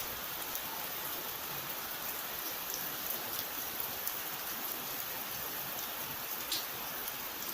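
Steady rain falling, an even hiss with scattered individual drops ticking on a surface, the clearest about six and a half seconds in.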